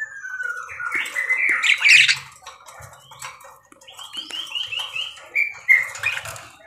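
Budgerigars chattering: a falling whistle, loud harsh squawks, then a quick run of about six short repeated chirps and more squawks.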